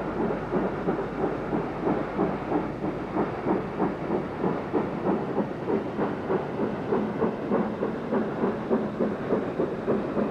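Steam locomotive exhaust beats at a steady rhythm, about two chuffs a second, with a rumble of the train underneath.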